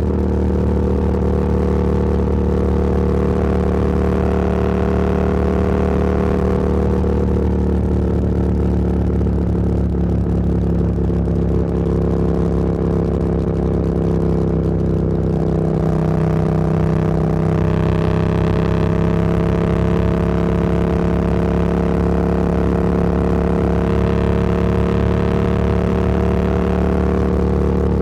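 Motorcycle engine running at a steady cruise, heard from the rider's position. The engine note sags slightly about halfway through and then climbs again, and wind noise swells and fades three times.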